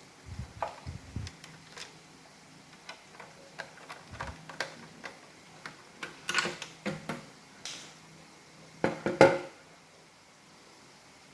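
Hard plastic parts of an iRobot Roomba robot vacuum being handled and fitted together: scattered clicks and knocks, with a short scrape and the loudest cluster of knocks about nine seconds in.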